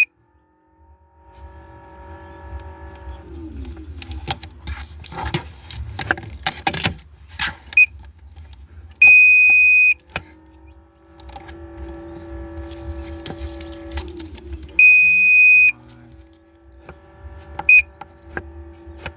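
Egg incubator's electronic alarm beeping: two loud, steady, high-pitched beeps about a second long, with two short blips. Between them come clicks and knocks of handling, and a steady pitched hum runs underneath.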